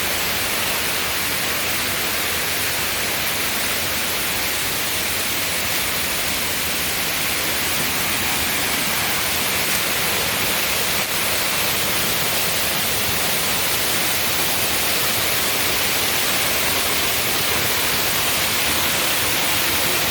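Waterfall: a steady, unbroken rush of falling water, hissing most strongly in the high range.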